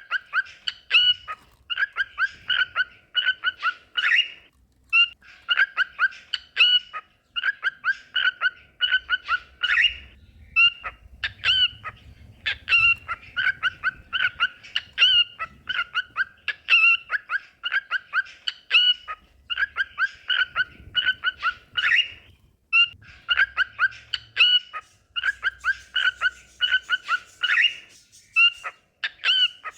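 Cockatiels singing: rapid strings of short chirps and whistles in phrases a second or two long, with brief pauses between phrases.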